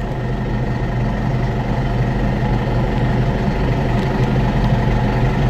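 Tractor engine running steadily at idle, an even low hum with no change in pace.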